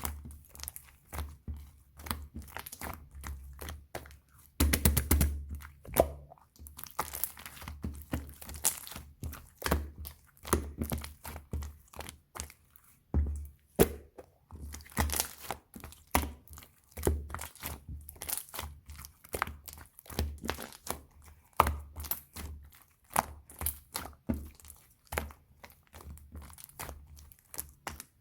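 Clear slime being squeezed and kneaded by hand, giving dense, irregular crackles and pops of trapped air, louder in stretches a few seconds in and around the middle.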